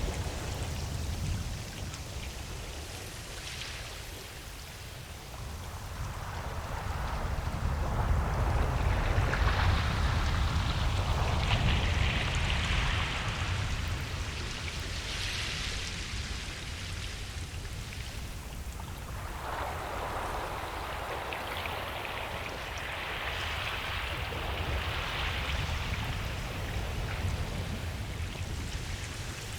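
Ocean surf on a beach: waves breaking and washing in over a steady low rumble, in two long surges, one building about six seconds in and another about two-thirds of the way through.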